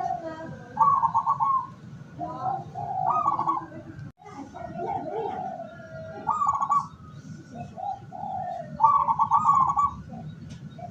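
Zebra dove (perkutut) cooing: about four repeated phrases, each a few low coos ending in a rapid rolling trill. Faint high chirps from other small birds come in between.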